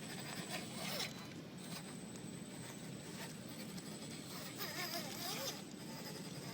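Electric motor and gears of an RC scale crawler truck whining and rasping as it crawls, the whine rising and falling in pitch late on, with a sharp click about a second in.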